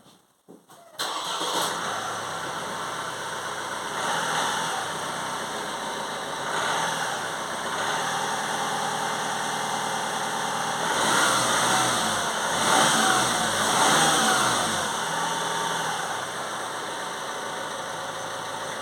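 Vauxhall Astra K's turbocharged engine starting about a second in and idling, revved a few times in the middle before settling back to idle. This is a test run after a new radiator has been fitted.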